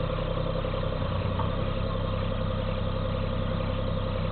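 Cat 302.5 mini excavator's diesel engine running steadily as the machine digs, with a steady whine above the engine note.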